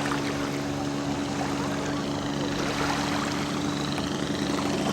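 Radio-controlled model seaplane's engine running steadily at low throttle with a low hum, over a haze of water and background noise as the model comes in on the water.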